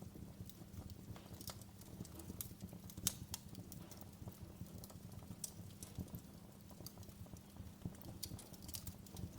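Fire in a fireplace crackling: irregular small pops and snaps over a steady low rumble, with one louder pop about three seconds in.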